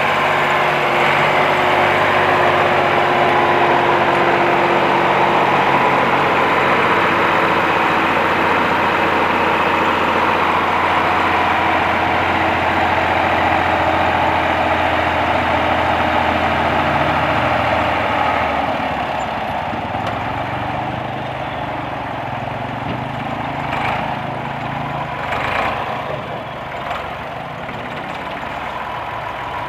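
Massey Ferguson tractor's diesel engine running steadily. About eighteen seconds in, the level drops and the engine note changes as it eases off, and a couple of short knocks come near the end.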